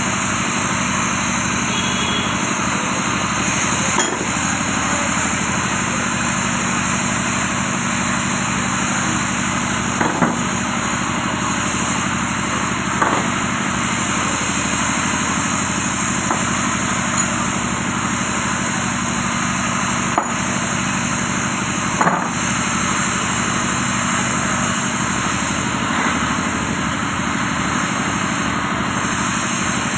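Steady mechanical running noise with a low hum, broken by a handful of short, sharp knocks spread through it.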